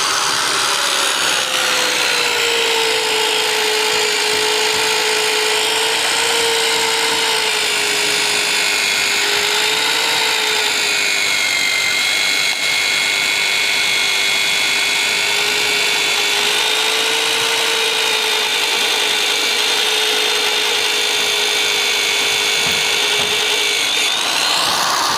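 Electric drill running steadily under load with a sustained whine, boring a hole through a truck's steel chassis rail; it winds down near the end.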